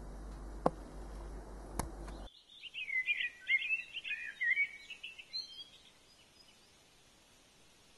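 A small songbird singing one rapid phrase of quick high notes, lasting about three seconds. It follows a faint room hum with two light clicks.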